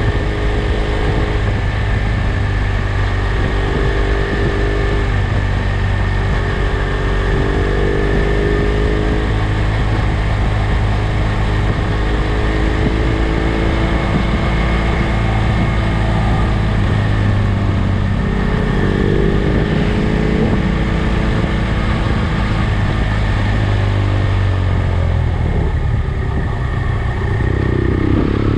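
BMW 800 GS motorcycle engine running on the move, heard from on board with wind and road noise; its note climbs and drops several times as the rider opens and closes the throttle, with a rising pull near the end as it picks up speed from slow.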